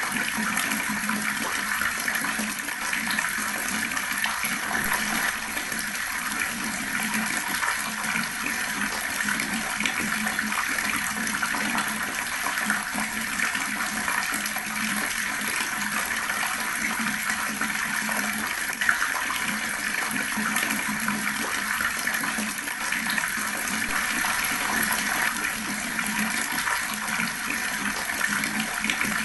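Water running steadily from a tap, a slow, continuous stream splashing without break.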